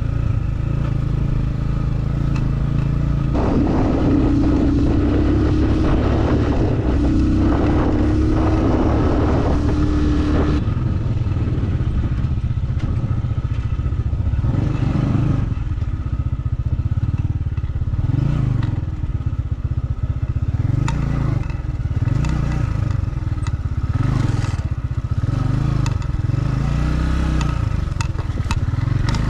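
Motorcycle engine running under way on a dirt road. The engine pulls harder with a higher note for several seconds early on, then its revs rise and fall. Scattered clicks and knocks come in the latter part.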